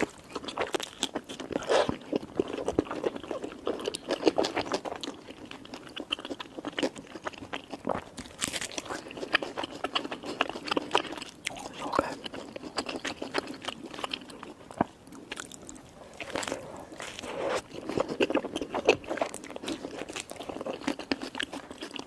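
Close-miked biting and chewing of a burger, with dense, irregular crunching and crackling.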